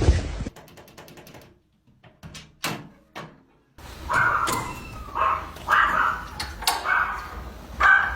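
A door clicking and rattling, a cat pawing at the handle to open it, followed by a cat meowing in a run of short calls.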